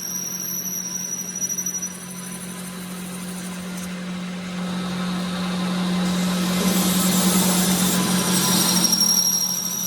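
A power tool running steadily with a constant low hum. A louder hiss swells in the second half and fades near the end.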